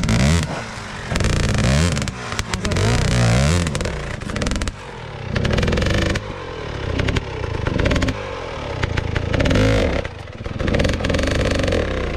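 Dirt bike engine revving up and dropping back over and over, about every second and a half, with clattering and scraping along the way.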